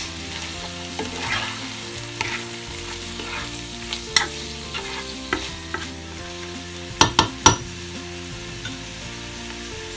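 Sliced hotdogs and diced bacon sizzling in a frying pan while a spatula stirs them, with scattered taps and scrapes of the spatula against the pan. Three sharp knocks about seven seconds in are the loudest.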